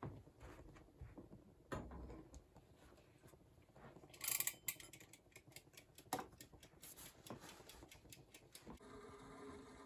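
Quiet kitchen handling sounds: scattered light clicks and knocks, with a brief hiss about four seconds in that is the loudest thing heard.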